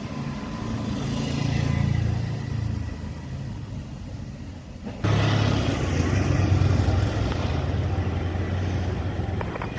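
Low, steady vehicle rumble with road or rail noise over it. It swells and eases in the first few seconds, then jumps suddenly louder about five seconds in and holds.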